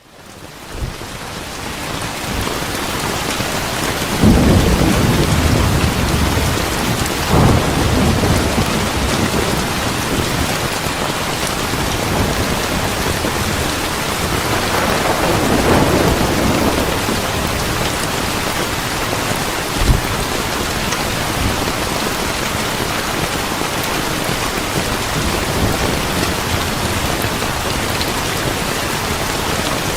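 Steady heavy rain with thunder rumbling, swelling about four seconds in, again near seven seconds and around fifteen seconds, with a short sharp thunder crack near twenty seconds. The sound drops out briefly at the very start and fades back in over the first two seconds.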